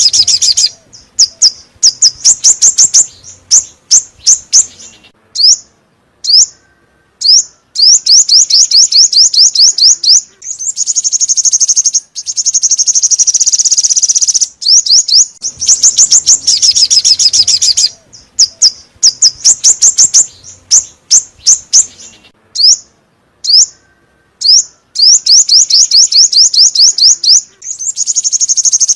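Song of the chim 5 màu songbird, the call used to lure wild birds of its kind. It comes as fast trills of high chirps, each run lasting one to three seconds, broken by short pauses and single sharp notes.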